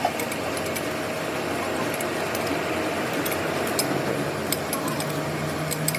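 Metalworking machine running steadily, with scattered light metallic clinks and ticks.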